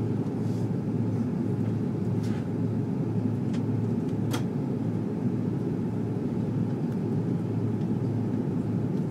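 Airbus A330-300 cabin noise in flight: a steady low rumble of the jet engines and airflow with a constant hum, heard from inside the passenger cabin. A few faint clicks sound over it, the sharpest about four seconds in.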